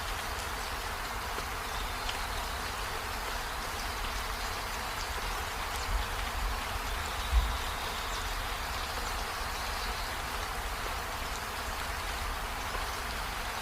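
Steady rain falling, an even hiss with a low rumble underneath, and one short low thump about seven seconds in.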